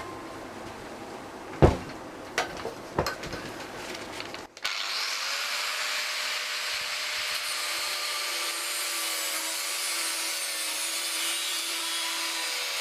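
A few sharp knocks and clanks of tools on the motorcycle frame, then, about four and a half seconds in, a power tool starts and runs steadily, grinding through the steel frame tube with a hiss and a steady whine.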